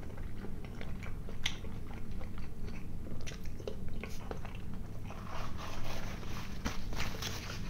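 Close mouth sounds of a man chewing a bite of boiled sausage, with short wet clicks and smacks. From about five seconds in, a paper napkin rustles.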